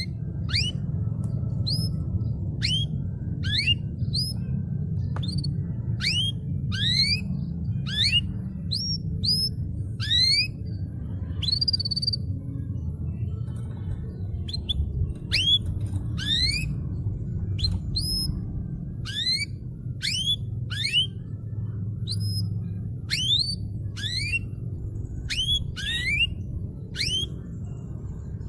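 Canary singing a long run of short, quick rising whistled notes, roughly one or two a second, over a steady low hum.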